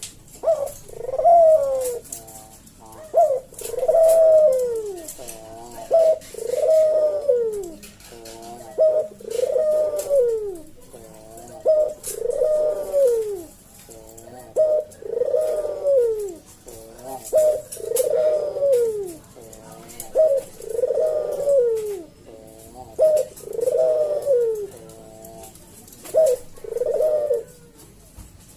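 Puter dove (domestic ringneck dove) cooing in a slow, repeated rhythm: about a dozen 'kuk-deruk' phrases, each a falling coo with short rolling notes between, roughly one every two seconds.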